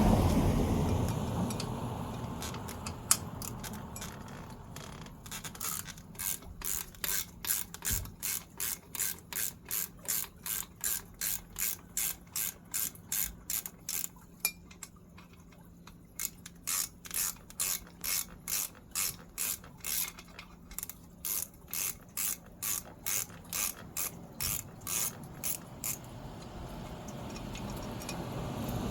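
A ratchet mechanism clicking in a steady series of sharp clicks, about two to three a second, pausing for a couple of seconds about halfway through. A low rushing noise fades out over the first few seconds and comes back near the end.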